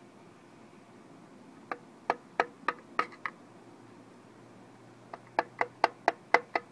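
Two runs of sharp taps, about six and then about seven in quicker succession, knocking the back end cover loose from an electric pump motor after its through bolts are out.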